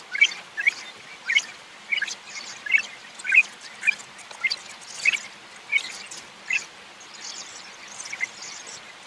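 Small birds chirping outdoors: short, sharp chirps repeated about once or twice a second, fewer in the last couple of seconds.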